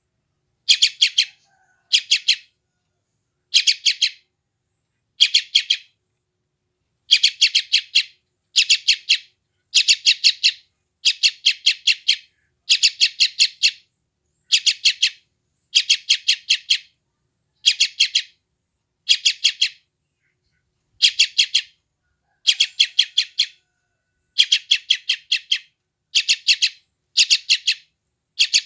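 Yellow-vented bulbul (trucukan) chick giving hungry begging calls: short bursts of rapid, high chirps, about one burst a second with brief silences between.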